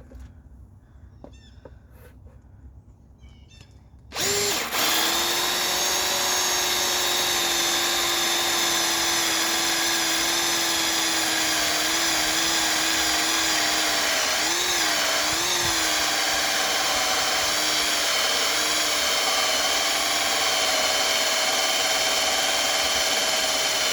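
A Bauer cordless hammer drill starts suddenly about four seconds in and runs steadily under load, boring a hole through wood with a large saw bit. Its motor whine dips slightly a few times as the bit bites.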